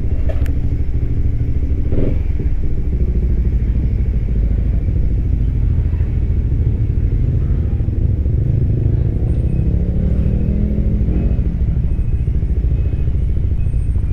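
Suzuki Raider 150 Fi's single-cylinder four-stroke engine running at low revs as the motorcycle moves off, the revs rising a little about ten seconds in.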